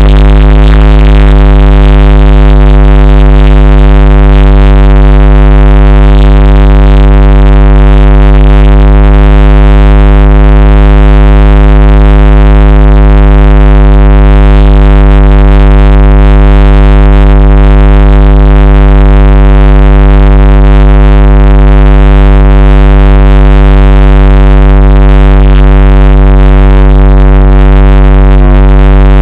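Synthesizer drone: a dense, very loud held chord of steady tones over a heavy low bass, unchanging throughout.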